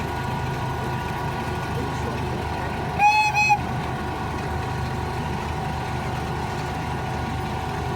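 Zoo ride train's horn giving two short toots about three seconds in, over the steady hum of the train running along the track.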